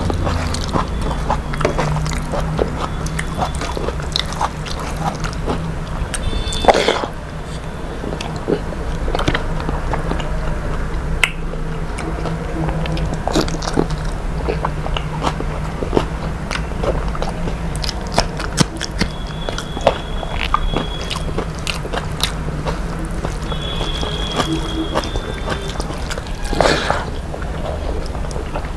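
A person chewing and biting food close to the microphone, with many short, irregular crunchy clicks and mouth sounds.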